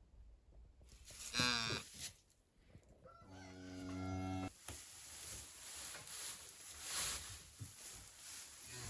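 Farm animals calling. A brief, loud call slides down in pitch, then a cow gives one low, steady moo. After that comes an uneven rustling, scraping noise.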